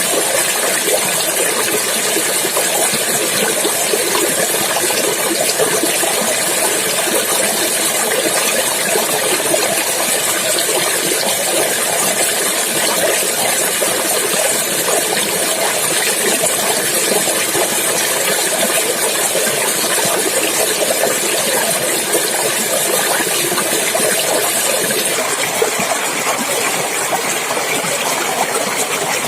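Clear water running and splashing in a wild stream, a steady rush that does not change.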